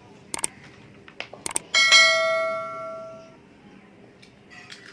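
A few light clinks, then one strike on metal tableware that rings out with a bright, many-toned ring and fades over about a second and a half.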